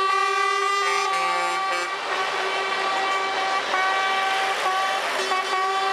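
Truck air horns blaring continuously, several steady tones sounding together, with the mix of tones shifting a few times as horns cut in and out.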